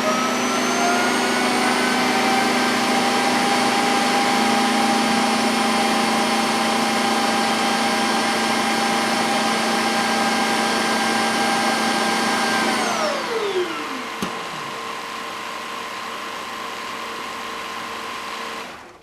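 Suction motor of the Shark Matrix robot vacuum's self-emptying base running at full speed with a steady high whine, sucking the dirt out of the robot's bin. About thirteen seconds in it winds down with a falling pitch, then a click, and a quieter steady hum carries on until it cuts off at the very end.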